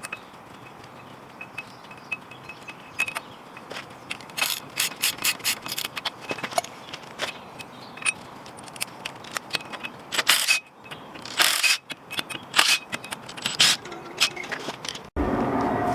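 Metal hand tools working on a van's front brake: scattered clicks and quick runs of ratchet-like clicking and clanking. Near the end the sound changes abruptly to a steadier, louder noise.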